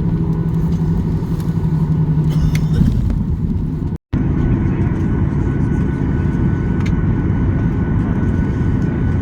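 Cabin noise inside a Boeing 737-800: a steady low rumble of its engines and airframe. A steady hum stops about three seconds in, and the sound cuts out for an instant about four seconds in.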